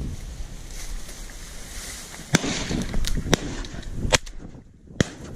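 Several sharp shotgun shots, about a second apart, over wind noise on the microphone.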